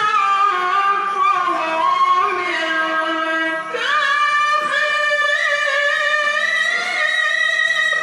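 A qari's voice reciting the Qur'an in melodic tilawah, in a high register. He holds long, ornamented notes that bend and slide, and steps up in pitch about four seconds in.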